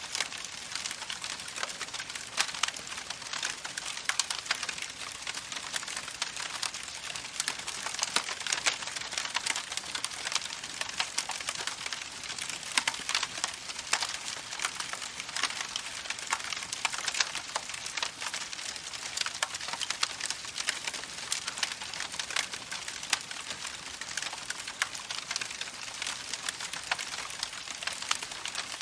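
Campfire crackling steadily, with dense small snaps and pops.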